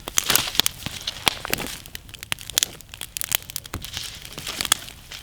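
Wood campfire crackling, with many irregular sharp pops and snaps over a soft hiss of burning.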